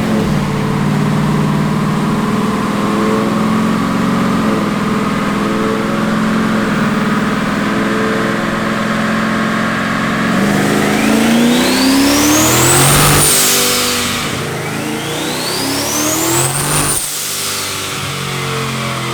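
Turbocharged 5.0 Coyote V8 of a Ford F150 running steadily on a chassis dyno, then pulling hard twice: each time the engine note climbs with a rising turbo whistle that peaks and falls away as the throttle is lifted.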